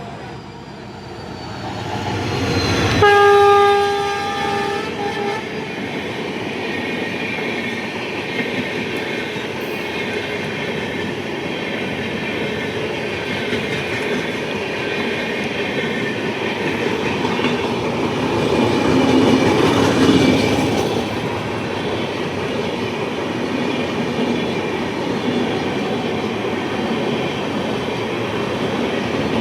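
A locomotive horn blasts once for about two seconds, then a train rolls past with its wheels clattering over the rail joints, swelling louder about two-thirds of the way through.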